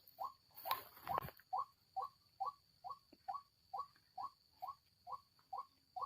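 White-breasted waterhen calling a short, harsh note over and over at an even pace of about two a second. There are a couple of louder rustles about a second in.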